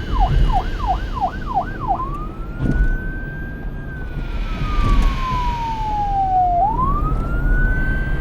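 Electronic police siren, a single pure tone: about six quick yelping sweeps, then switching at about two seconds to a slow wail that rises, falls and rises again.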